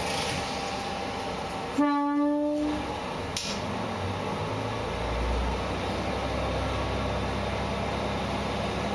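Diesel railcar sounding its horn once, a pitched blast about a second long, about two seconds in; a sharp click follows, then the engine's low rumble rises from about five seconds in as the railcar pulls away from the station.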